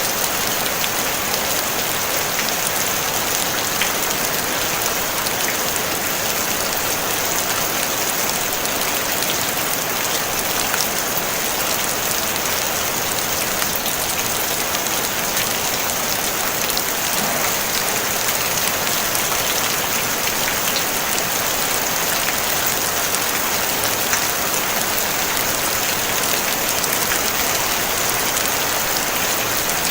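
Steady rain falling on a tin roof: an even hiss with many fine drop ticks, unchanging throughout, no thunder.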